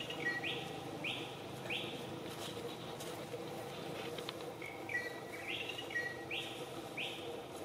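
A bird singing a repeated phrase: a short steady whistle followed by three or four quickly rising notes about two-thirds of a second apart, heard twice.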